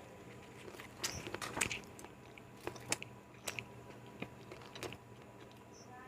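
A person biting and chewing an egg roll close to the microphone. A cluster of crunches about a second in is followed by scattered mouth clicks and smacks.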